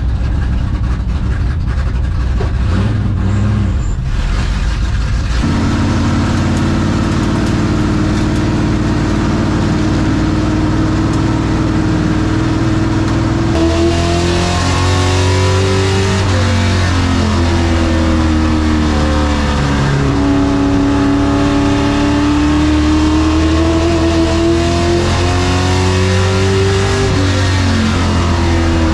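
Race truck engine running loudly. Its note is steady at first; from about halfway through, the pitch rises and falls repeatedly as it accelerates and lifts, the way it does lapping a short oval.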